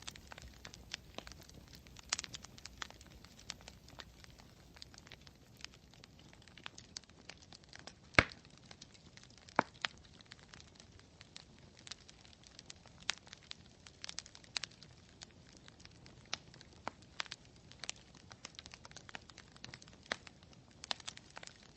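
Campfire crackling, with irregular sharp pops and snaps from the burning wood over a faint low hiss; the loudest pop comes about eight seconds in.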